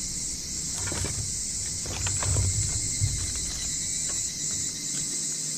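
Night insects, crickets, trilling in a steady high-pitched chorus, with a few short clicks in the first half.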